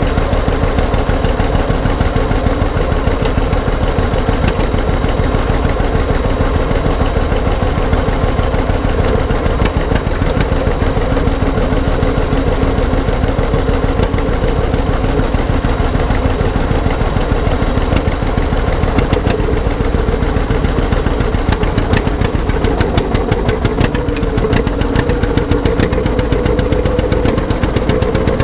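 Antique tractor engine running hard under load, a loud, steady, rapid firing beat whose pitch rises a little near the end.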